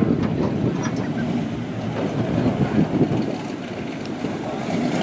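Small-block V8 engine running steadily.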